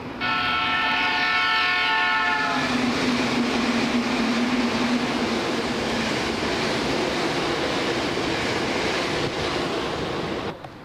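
Keikyu electric train sounding its horn for about two and a half seconds, the pitch dipping slightly as it draws level, then running past the platform with loud wheel and rail noise that drops away abruptly near the end.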